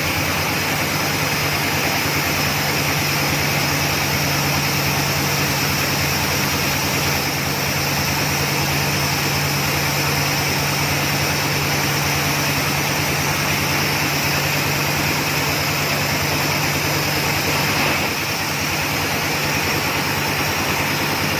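Engine of a large water-well drilling rig running steadily, with a constant low hum under a wash of machine noise.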